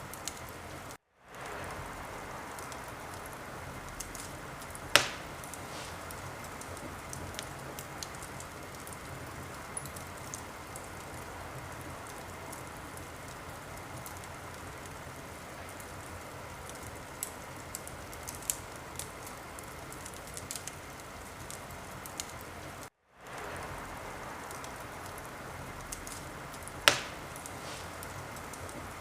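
Wood fire crackling in a fireplace: a steady hiss with scattered small pops, and two loud snaps, about five seconds in and near the end. The sound cuts out completely for a moment twice.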